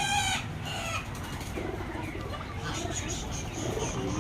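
Aseel chickens calling: a drawn-out pitched call fades out about half a second in, followed by scattered short clucks and chirps over a steady low rumble.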